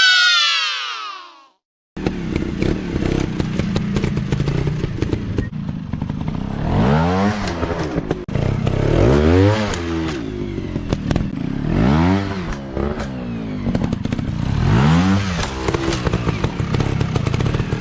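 Dirt bike engines revving in short swells, each rising and falling again about four times, with clattering over rough ground. At the start, an engine note drops sharply and cuts to silence for a moment.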